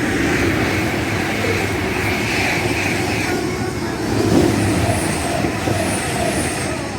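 Train running through the station: a steady loud rumble and rush of noise, swelling about four seconds in, with faint high squeals a little later.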